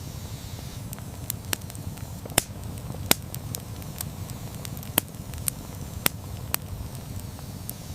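Wood campfire burning: a steady low rumble of flames with sharp, irregular crackles and pops from the burning logs.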